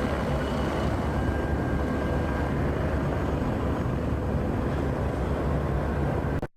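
MBB Bo 105 helicopter running, a steady rotor beat over turbine noise, which cuts off suddenly near the end.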